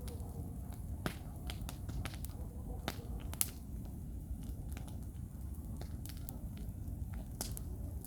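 Wood campfire crackling with scattered sharp pops and snaps, one louder pop about three and a half seconds in. The pops come from damp logs that heat up and burst.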